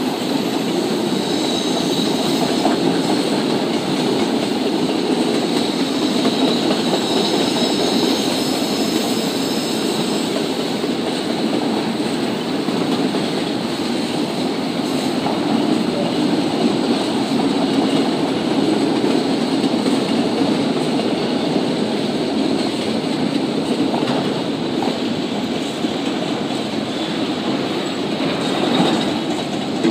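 CSX autorack freight train's cars rolling past, a steady rumble of steel wheels on rail with clatter over the rail joints. A faint high wheel squeal comes and goes, most noticeable in the first third and again near the end.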